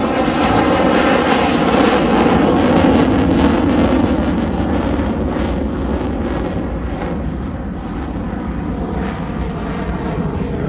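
F-16 fighter jet's engine, a loud, crackling noise that swells over the first couple of seconds, eases off a little in the second half and builds again near the end as the jet flies by.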